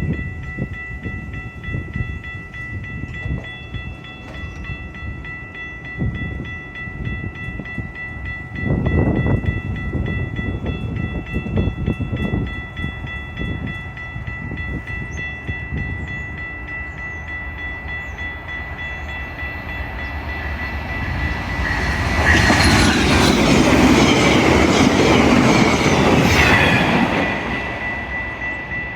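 Passenger train running by on the track: wheels knock over rail joints under a steady high whine. Late on, a loud rush of noise swells for several seconds and then drops away as the train passes close.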